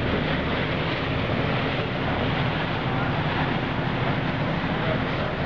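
Steady engine drone under a rushing noise of wind on the microphone.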